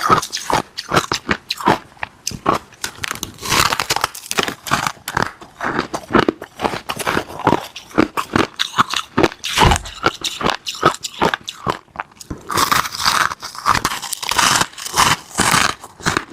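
Ice being bitten and chewed close to the microphone: a rapid run of crisp crunches, growing denser near the end.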